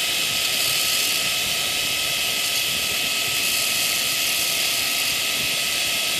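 Gas-fired farrier's forge burner running with a loud, steady hiss.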